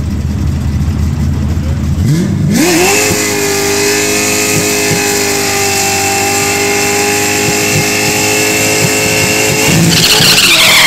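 Ford Foxbody Mustang's 347 stroker small-block V8 rumbling low at idle, then revved up sharply about two seconds in and held at high rpm through a burnout as the rear tyres spin and smoke. The revs climb higher again near the end.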